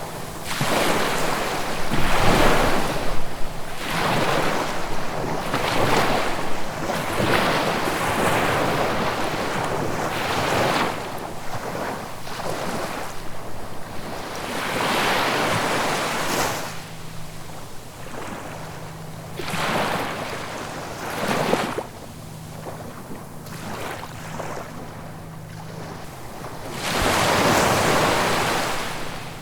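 Ocean waves breaking and washing on the shore, surging in repeatedly every few seconds with quieter lulls between, the biggest breaks a few seconds in, around the middle and near the end.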